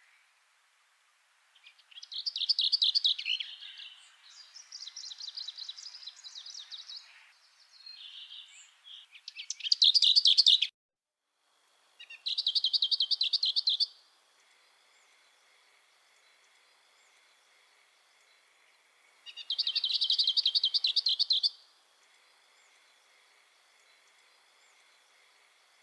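A songbird singing repeated fast trilled phrases, each about two seconds long, with pauses of a few seconds between them. A faint steady high tone runs underneath from about halfway through.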